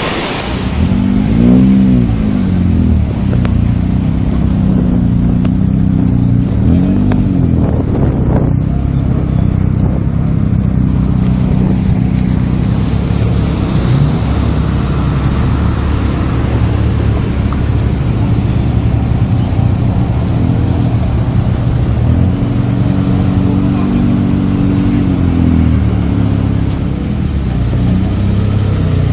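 Saab cars, among them a classic Saab 900 and a Saab 9-3, driving slowly past with engines running. The engine note rises and falls a few times as they are throttled, with a longer swell near the end.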